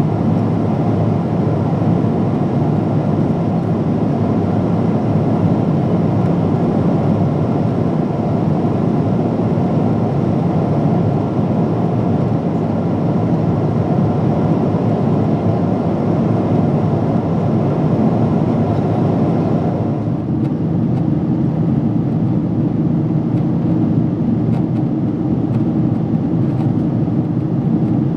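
Steady cabin noise of a Boeing 777-300 in flight: engine and airflow noise. About twenty seconds in the sound changes abruptly, the upper hiss thinning out and a lower hum coming forward.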